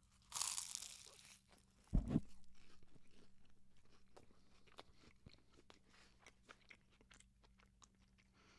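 Crunching bite into flaky phyllo pastry (spanakopita), followed by close-up chewing with many small crackles that gradually fade. A low thump comes about two seconds in.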